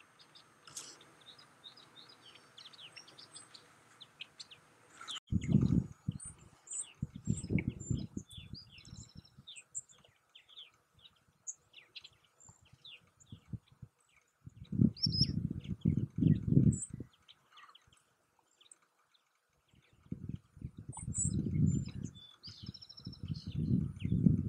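Birds chirping, many short high peeps and chirps overlapping. Loud, low rumbling bursts come and go in three spells, starting about five seconds in, and are the loudest sound.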